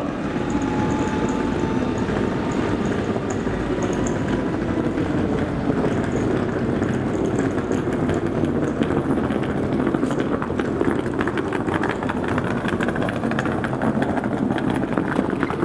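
Train running through the station: a steady rumble of wheels on rail, with rapid clicking that builds from about ten seconds in.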